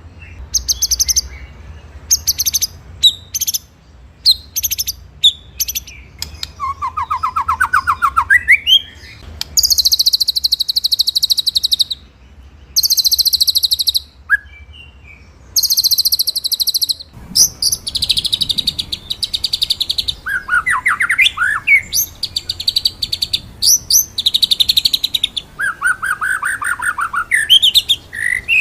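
White-rumped shama (murai batu) singing: rapid rolling trills in phrases of one to two seconds, some high and some much lower, broken by short pauses and quick sharp notes.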